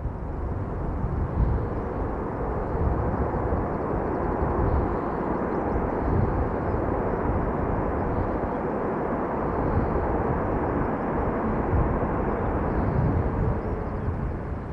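Jet aircraft engines running with a steady, broad rumble that fades near the end.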